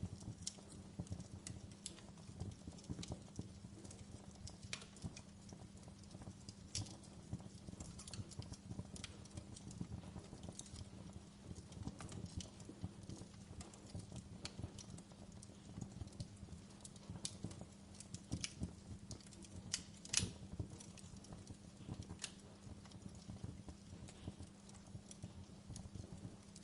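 Fire crackling: irregular sharp pops and snaps over a steady low hum, with one louder pop about twenty seconds in.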